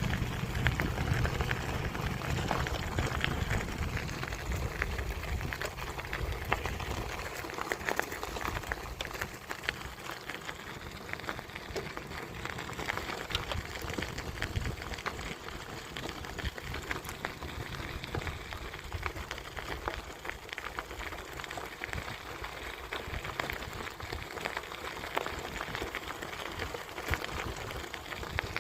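Bicycle tyres rolling along a path with a steady crackling hiss. A low wind rumble on the microphone is strong for the first several seconds and then fades.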